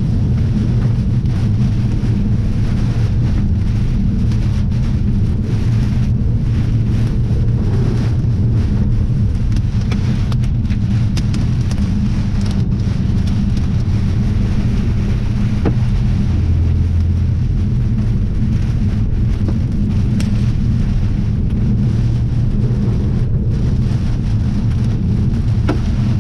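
Thunderstorm: a steady deep rumble of strong wind with heavy rain, and scattered sharp ticks of drops or hail hitting.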